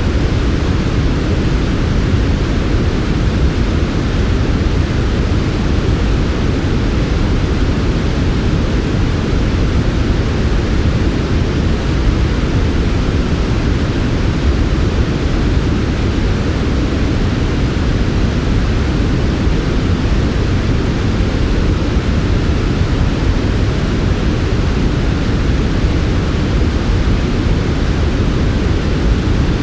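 Steady, unbroken synthetic noise for sleep, heaviest in the low end with a softer hiss above, never changing in level.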